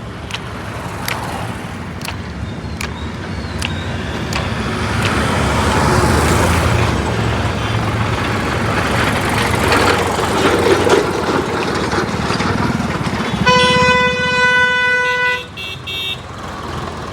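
Remote-control toy tractor running with a steady motor buzz and clicks. A steady horn tone sounds for about two seconds near the end.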